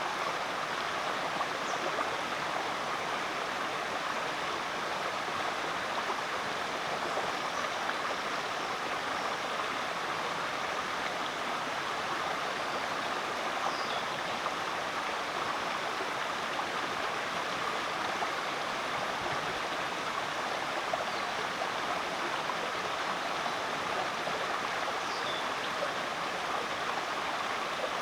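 Rainforest creek flowing, a steady, even rush and babble of water, with a few faint, short high chirps scattered through.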